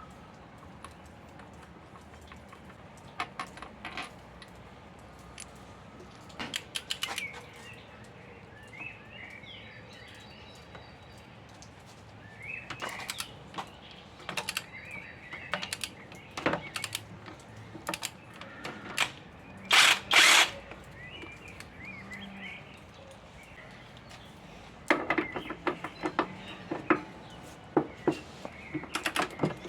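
Intermittent clinks and knocks of hand tools and metal engine parts being handled, in scattered clusters. Two louder, longer bursts come about two-thirds of the way through, then a busy run of knocks near the end.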